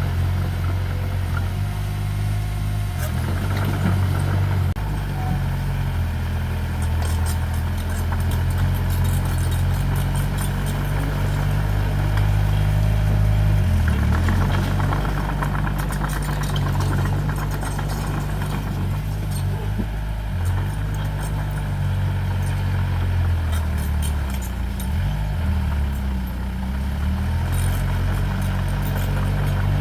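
Diesel engine of earthmoving machinery running steadily, its pitch dipping and rising again briefly a couple of times, with faint intermittent clatter.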